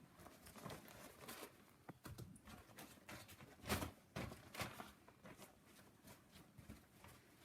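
Faint rustling and crackling of a plastic bin bag being handled and pulled apart to open it, with a louder crackle about halfway.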